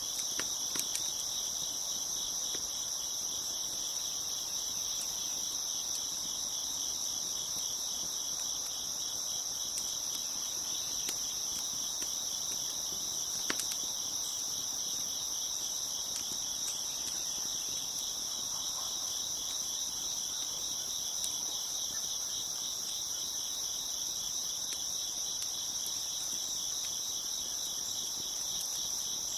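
A chorus of crickets chirping steadily, dense and high-pitched. A few sharp pops from a crackling wood fire stand out now and then, the clearest about thirteen seconds in.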